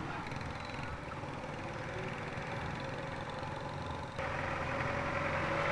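Motorcycle engine idling steadily, getting a little louder about four seconds in.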